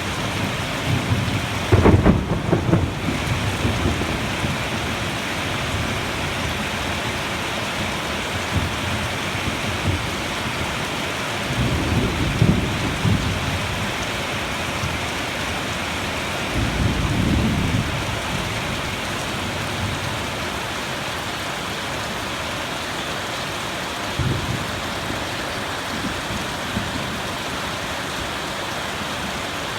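Thunderstorm: steady rain with thunder rumbling over it, the loudest roll about two seconds in, two more rolls through the middle and a short one later.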